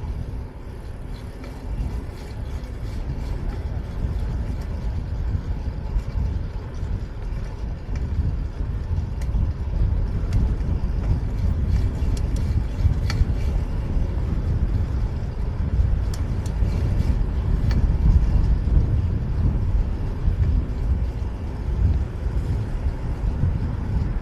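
Steady low rumble of wind on the camera microphone and street traffic noise while riding a fixed-gear bike through city streets, with a few faint clicks in the middle.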